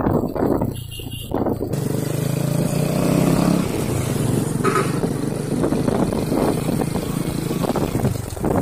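Truck engine running on a road, its pitch rising for a moment about two to three seconds in.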